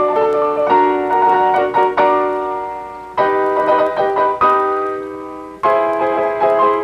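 Piano playing an instrumental passage: a run of chords, then single full chords struck and left ringing, each fading away before the next.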